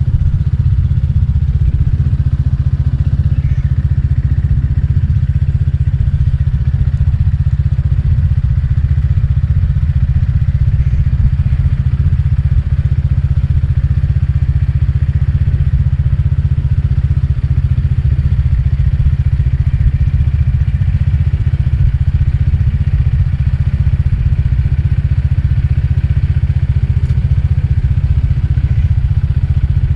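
My150 scooter cruising at a steady speed, its engine and the wind giving a loud, even low rumble. It is picked up by a GoPro Hero 7 Black's microphone behind a foam windscreen.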